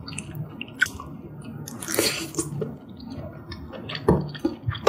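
Close-miked chewing of a spoonful of malatang ingredients: wet mouth sounds with scattered small clicks, and a few sharper bites near the end.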